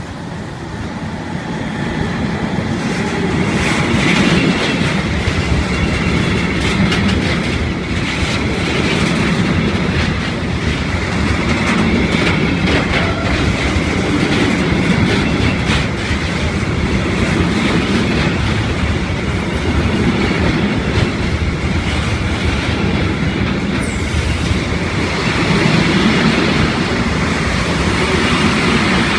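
Freight train rolling past at close range, its wagons clattering rhythmically over the rail joints, with now and then a faint wheel squeal. The sound swells over the first few seconds, then holds steady.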